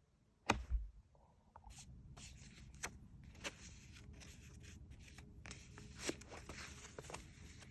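Handling of a paper sticker and activity book: a thump about half a second in, then scattered paper rustles, scrapes and light taps.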